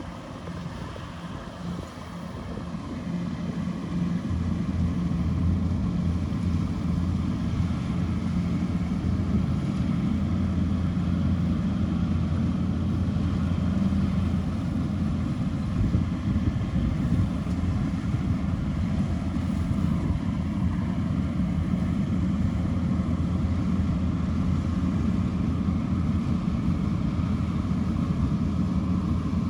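Kubota DC-105X rice combine harvester running under load, its diesel engine and threshing machinery giving a steady low drone. The sound grows louder over the first few seconds, then holds steady.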